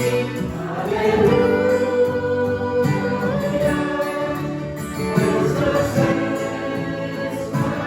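A choir singing a hymn in held chords that change every second or so.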